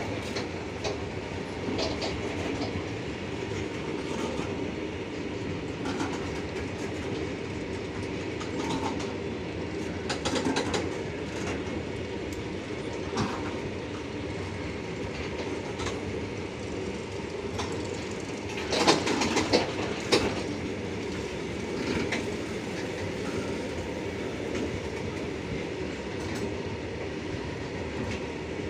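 Loaded freight wagons of a long goods train rolling past on the rails: a steady rumble with irregular clacks and knocks from the wheels, and a short burst of louder clanks about two-thirds of the way through.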